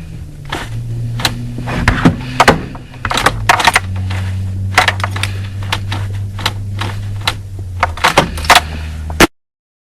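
Fiat 126's air-cooled two-cylinder engine running unevenly at low revs, with many sharp irregular clicks and pops over a steady low hum. The owner suspects the spark plugs or the ignition coil. The sound cuts off suddenly about nine seconds in.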